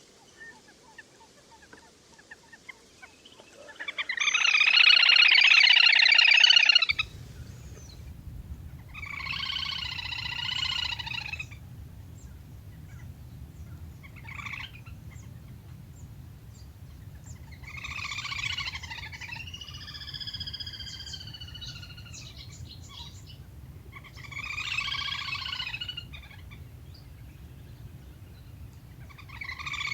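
Recorded calls of the le le hôi, a whistling duck, played as a lure call. The calls come in bursts of about two seconds, the first and loudest about four seconds in, then roughly every five seconds. A steady low hum comes in suddenly about seven seconds in.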